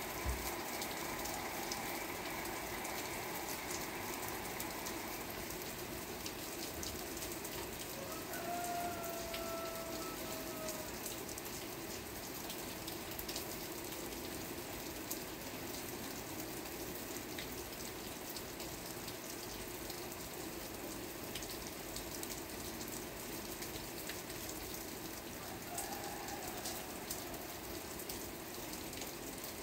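Steady rain falling, with many separate drops ticking through the hiss. A faint short tone sounds about nine seconds in.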